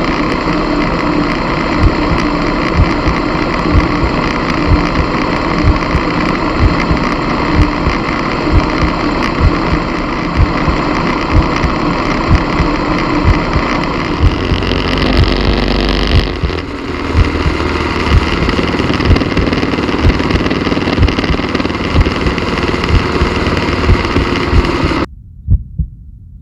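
Slow, heavy thumps like a heartbeat, about one to two a second, over a steady rushing noise. Near the end the rushing noise cuts off suddenly and the thumping carries on alone.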